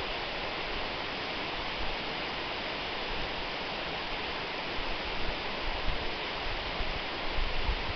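Waterfall rushing steadily, with uneven low rumbles in the second half.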